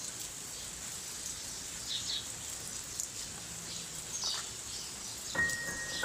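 Steady rain, with birds chirping briefly a couple of times. Near the end a single high piano note starts ringing.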